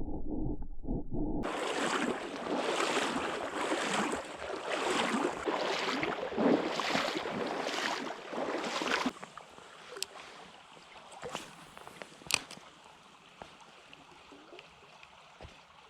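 Creek water splashing and sloshing in repeated surges, then dropping to a quieter steady flow with a few sharp clicks.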